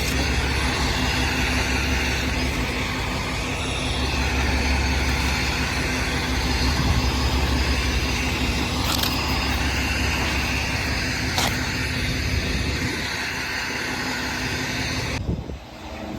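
Semi truck driving, heard from inside the cab: a steady engine drone under road noise. It cuts off abruptly about a second before the end.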